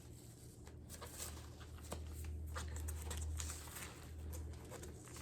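Packing tape being peeled off a record's paper inner sleeve, with the sleeve handled: scattered rustles and short tearing crackles over a steady low hum.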